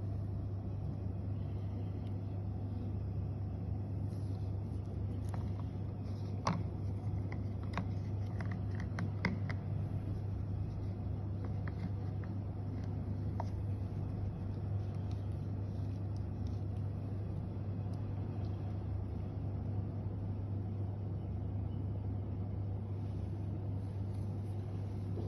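Steady low hum with a few light clicks and taps, clustered roughly six to ten seconds in.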